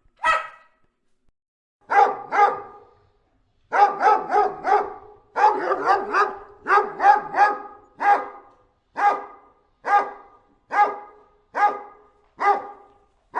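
Chihuahua barking over and over in short, sharp, fairly high barks. A single bark is followed by a pause, then quick bunches of barks that settle into a steady run of about two barks a second.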